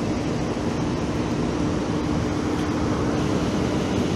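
Train running: a steady rumble with a steady low hum.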